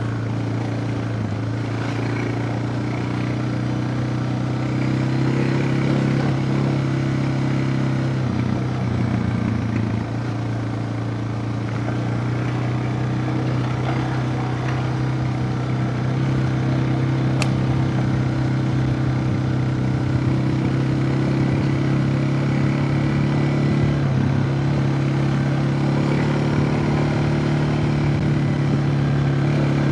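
Suzuki DR650's single-cylinder four-stroke engine running steadily as the motorcycle is ridden. Its pitch shifts slightly with the throttle, easing off around eight to ten seconds in and picking up again later.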